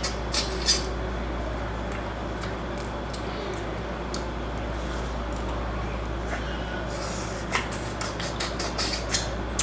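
Seafood shells being cracked and broken open by hand: sharp clicks and cracks, a couple near the start and a quick run of them from about seven and a half seconds in, over a steady low hum.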